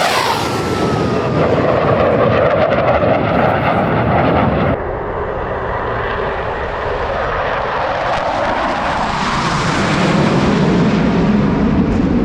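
Blue Angels F/A-18 Super Hornet jets roaring past, with a falling pitch just after the start as a jet goes by. About five seconds in the sound changes abruptly to another jet pass that grows louder toward the end.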